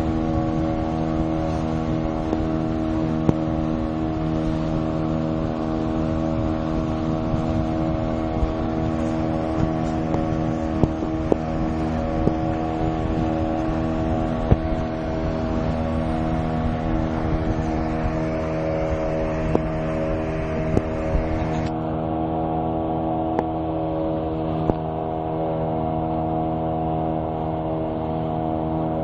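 A boat engine running at a steady speed, a constant drone with several even tones and a few faint clicks.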